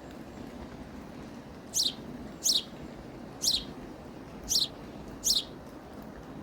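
A bird calling five times, each call a short, high chirp falling sharply in pitch, spaced roughly a second apart, over a steady low background noise.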